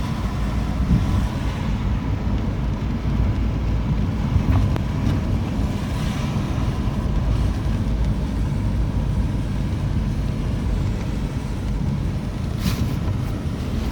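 Wind buffeting the microphone in a steady low rumble over a rushing noise of a rainstorm, with a few brief clicks near the end.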